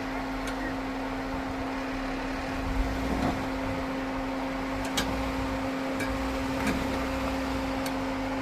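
Steady mechanical hum with a low rumble underneath, from an idling off-road vehicle, with a few faint clicks.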